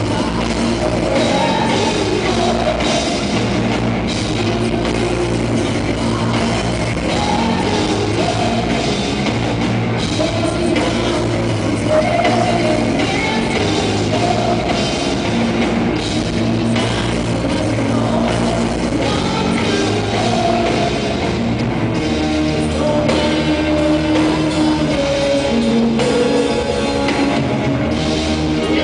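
Rock band playing live, loud and continuous, with a drum kit driving a steady beat.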